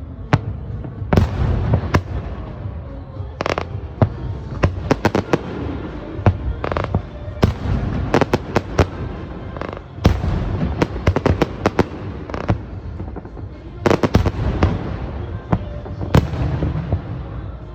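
Aerial fireworks going off in a continuous barrage: booming shell bursts and sharp cracks over a low rumble, with several runs of rapid crackling.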